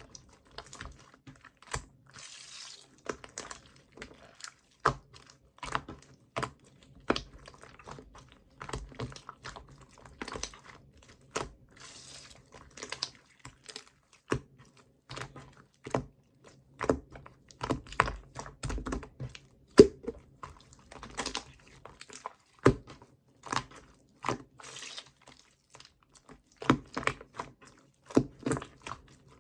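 Clear slime being pressed and stretched by hand, giving irregular sticky clicks and pops, with a few brief hissing stretches.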